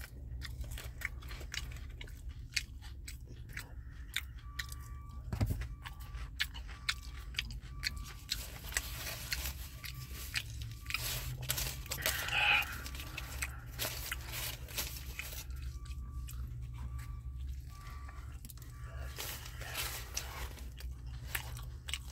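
A person chewing and biting into a sandwich close to the microphone: a run of short wet clicks and crunches from the mouth, over a steady low hum.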